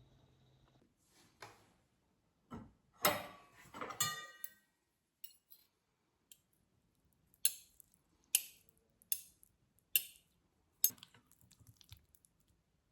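Tableware clinking: a cluster of ringing clinks of china or glass about three seconds in, then five crisp taps a little under a second apart, like cutlery against a plate.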